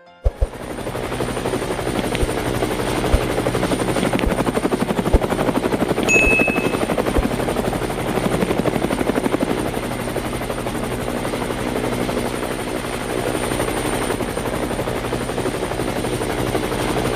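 Helicopter running steadily, a fast even chop of the rotor blades under a thin high steady whine. It cuts in abruptly, with a few low knocks in the first few seconds.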